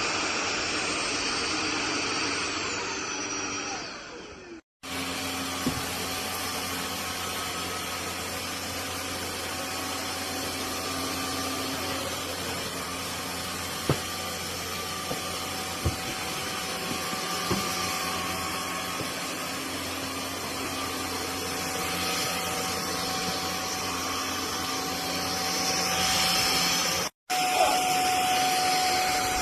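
Cordless stick vacuum cleaner running with a steady motor whine, broken by a few light clicks and knocks. The sound cuts out abruptly twice, once about five seconds in and again near the end.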